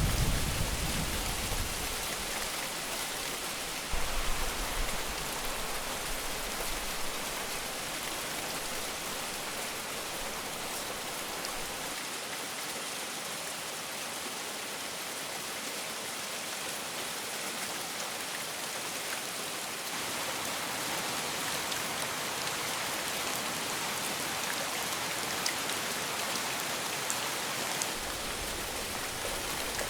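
Steady heavy rain falling, an even hiss. A low rumble of thunder dies away in the first second, and another short low rumble comes in about four seconds in.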